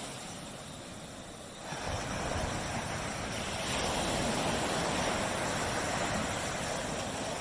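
Small waves breaking and washing on a tropical beach: the surf eases off at first, then a new wave breaks a little under two seconds in and the wash carries on steadily.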